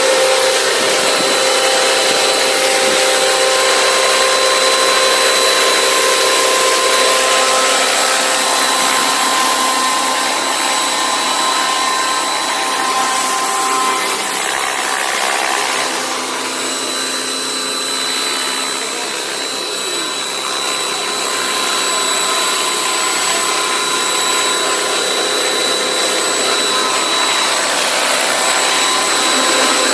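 Electric 600-size RC helicopter in flight: a steady high whine from its motor over the rush of the rotor blades, easing off slightly about halfway through before coming back up.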